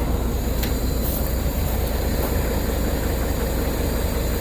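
Semi truck's diesel engine idling steadily, with a low even drone and a couple of faint clicks about a second in.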